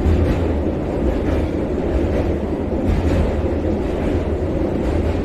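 Vande Bharat Express electric train running over a steel truss bridge, heard from inside the driver's cab: a loud, steady, deep rumble with a few faint knocks.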